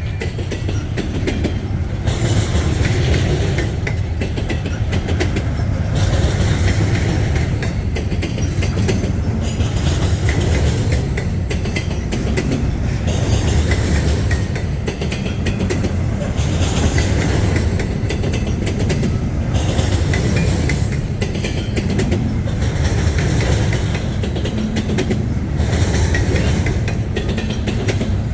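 Freight train rolling past on the tracks: a steady rumble of the railcars with the clickety-clack of wheels over rail joints.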